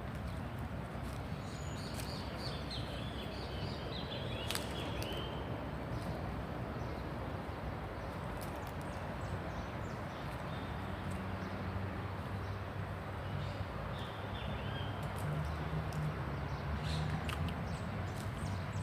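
Small birds chirping in short high calls, in bunches in the first few seconds and again later, over a steady low rumble of city background noise.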